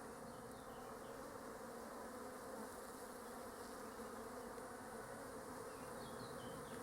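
Honeybees buzzing around an open hive: a faint, steady hum.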